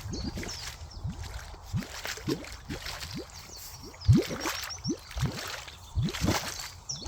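Loud, irregular bubbling bloops in water, each a short note rising quickly in pitch, several a second, from air bubbles coming up through a pond, which the listener takes for an underwater water pipe or filter.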